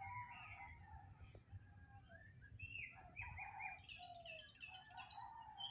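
Faint birdsong from several birds at once: overlapping chirps and short whistled glides, busiest in the second half.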